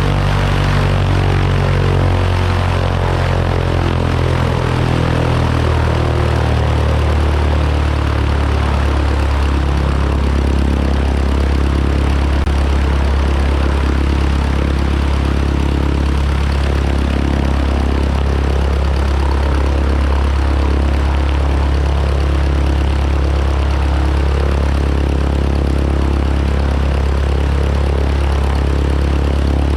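Rockwell Commander 112A's four-cylinder Lycoming engine and propeller running steadily at low power after start-up. The engine note eases down over the first few seconds, then holds even.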